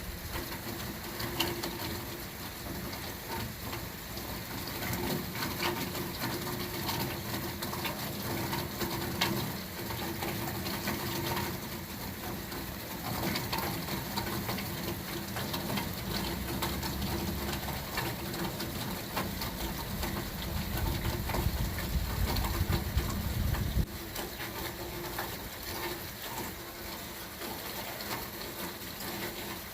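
Rain falling, a steady hiss dotted with many small drop ticks. A faint steady hum sits under it, and a low rumble builds from about halfway in, then cuts off suddenly about two-thirds of the way through.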